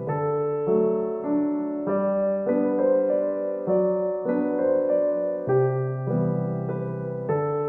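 Background music: a solo piano piece playing held notes and chords, with a new note or chord about every half second.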